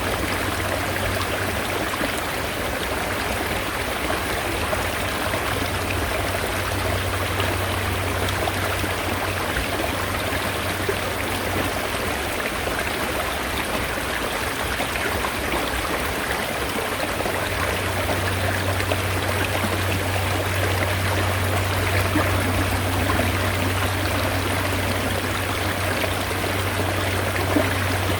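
Mountain stream water rushing steadily, with a low hum underneath that weakens partway through and comes back strongly in the second half.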